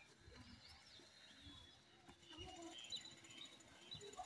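Faint outdoor ambience of birds chirping in short calls, with scattered soft low thuds.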